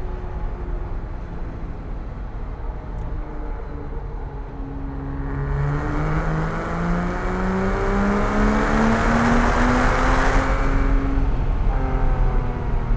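Porsche 987.1 Cayman S's 3.4-litre flat-six pulling hard under acceleration, its note climbing steadily for several seconds and getting louder. About two-thirds of the way in it falls back to a lower pitch as the throttle eases or the next gear goes in.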